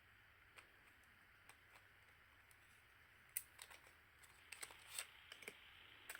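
Faint, scattered clicks and light taps of small parts being handled while a digital SLR camera is taken apart, the sharpest click about three and a half seconds in and a quick cluster around five seconds.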